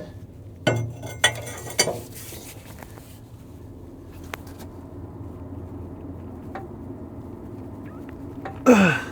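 Three metallic clanks about half a second apart, from a filter wrench being fitted and worked against a stuck truck oil filter, over a steady low hum. Near the end comes the loudest sound, a short one that slides steeply down in pitch.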